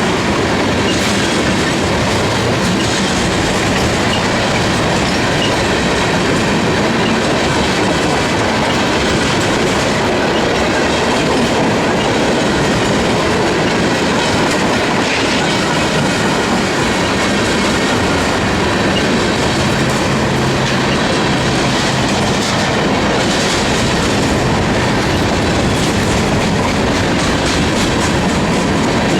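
CSX freight train's cars rolling steadily past, with continuous wheel-and-rail noise and clickety-clack over the rail joints.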